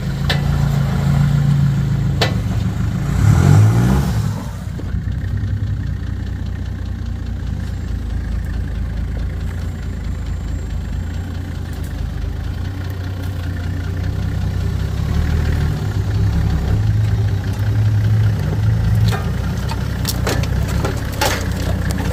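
Toyota four-wheel-drive engine running at low revs as the vehicle crawls off-road, with a brief louder surge of revs about three seconds in. A few sharp clicks and knocks near the end.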